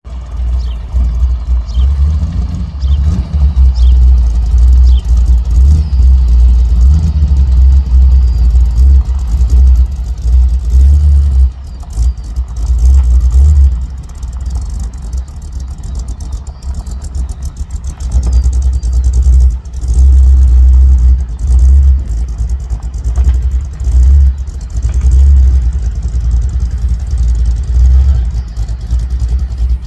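Hot rod sedan's engine running with a deep exhaust note that swells and eases as it is throttled gently, creeping at low speed up a ramp into an enclosed trailer.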